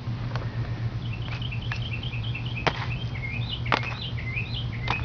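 A songbird singing a run of quick, repeated chirping notes, joined by a few sharp clicks, two of them louder than the rest, over a steady low hum.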